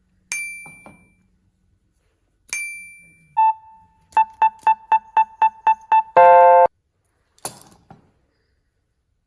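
Two ringing metallic dings, then a short electronic tone and a run of eight quick beeps at about four a second, ending in a half-second buzz; a soft rattle follows near the end.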